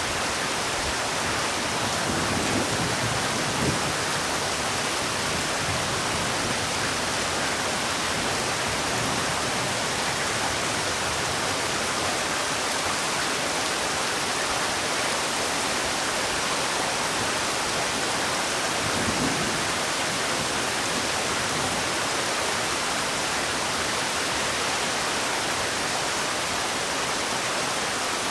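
Heavy rain falling steadily, an even hiss of dense drops, with a couple of soft low rumbles in it.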